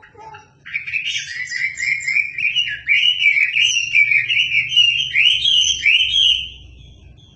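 Wambi songbird singing a long, loud, rapid phrase of repeated rising-and-falling notes. The phrase starts under a second in and stops about a second before the end, after a few short lower notes at the start.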